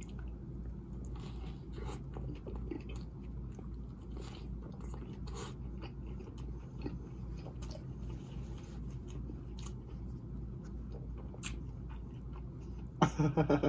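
Close-miked biting into and chewing a McDonald's Big Mac: wet chewing with many small crunches and clicks from the bun and extra lettuce, over a steady low hum. A louder voiced sound comes near the end.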